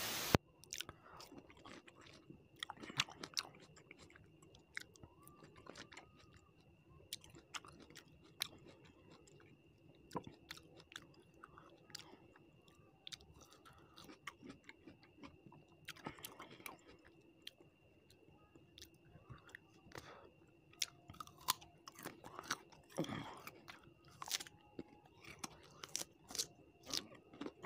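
Close-miked chewing of fish curry and rice eaten by hand: irregular wet mouth clicks and smacks, some crunching, with a faint steady high whine underneath.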